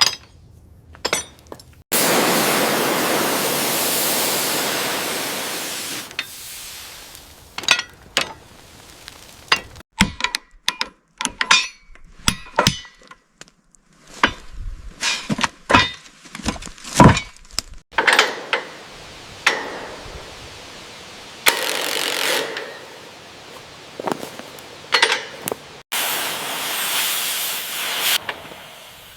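Hand tools working on metal locomotive parts: many short taps, clicks and knocks. There is a long hissing spray starting about two seconds in, and two shorter hisses near the end.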